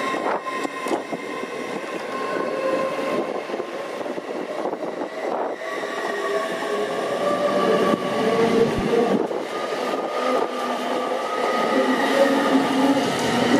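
A passenger train running on the line, a continuous rumble with several steady whining tones that drift slightly in pitch.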